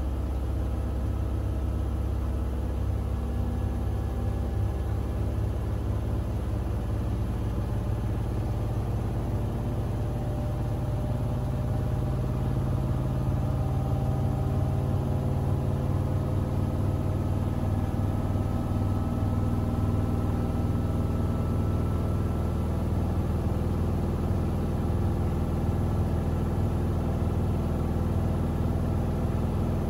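Siemens iQ700 WG56B2090 front-loading washing machine running: a steady low hum of motor and drum, slightly louder from about twelve seconds in.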